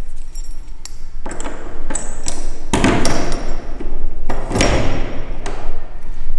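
A door being yanked at and worked with a key: repeated knocks and thuds with metallic clinks, and two longer rattling stretches about three and five seconds in.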